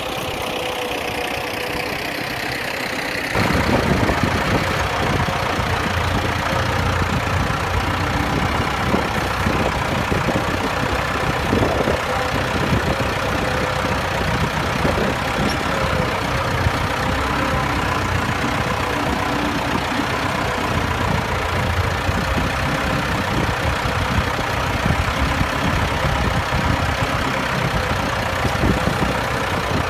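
Ford 5000 tractor engine running while ploughing. For the first three seconds or so it is quieter and its pitch falls, then it abruptly becomes louder and fuller and stays steady.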